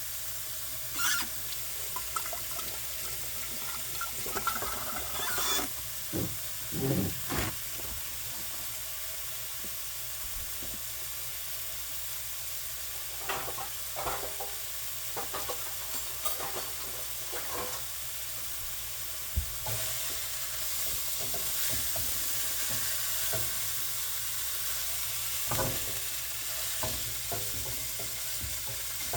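Food sizzling steadily in a frying pan, with scattered short knocks and clatters of utensils and handling.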